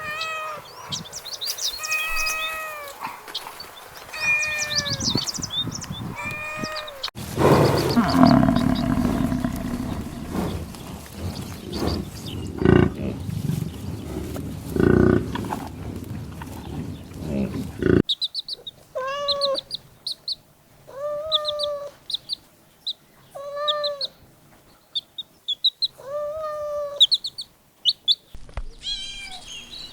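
Kittens mewing: short, high-pitched meows, repeated over and over. Roughly a third of the way in, a louder, noisier stretch carries only a few cries, then the mews return about one a second.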